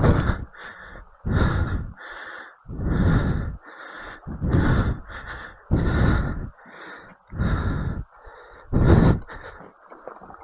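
A person breathing hard and fast, in loud, even puffs about every second and a half.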